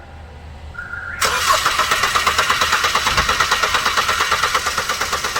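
Starter motor cranking a common-rail diesel car engine in rapid, even pulses from about a second in, without the engine catching. One injector connector is still unplugged, and the engine is failing to start.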